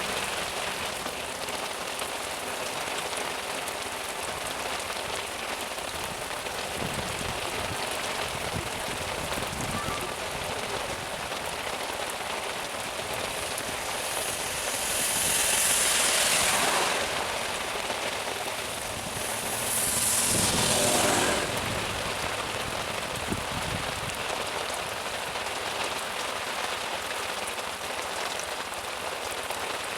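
Heavy rain falling steadily, a dense even hiss. It swells into two louder rushes of a couple of seconds each, about halfway through.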